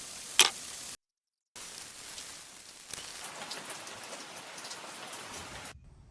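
Steady rain falling, a dense even patter, with one sharp loud knock about half a second in. The sound drops out completely for about half a second near the one-second mark, then the rain resumes and fades out near the end.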